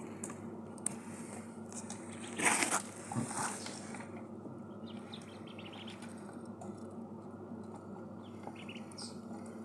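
Ducklings moving about as they eat and drink, with two short noisy rustling bursts about two and a half and three and a half seconds in, and a few faint peeps. A steady low hum runs under it.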